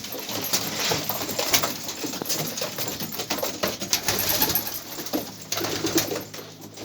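Domestic pigeons cooing, with scattered short taps and scuffs.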